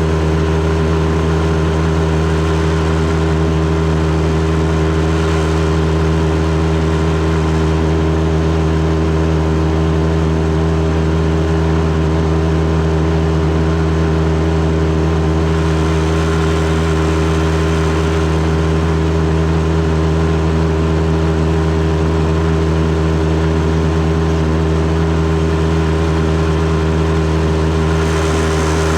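Outboard motor pushing a boat along at a steady speed: a loud, constant engine drone that holds one pitch throughout.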